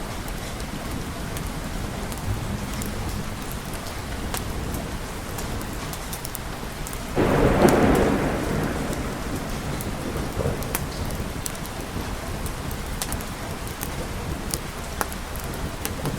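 Steady rain with a single thunderclap about seven seconds in that breaks suddenly and rumbles away over a few seconds. Sharp little ticks sound scattered through the rain.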